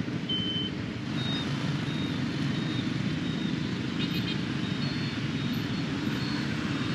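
Motorbike riding through dense city traffic: a steady engine and road rumble, with a few faint, short high beeps from the traffic around.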